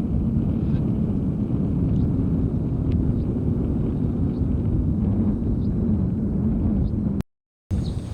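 Strong seaside wind buffeting the microphone: a steady low rumble that drops out abruptly for about half a second near the end.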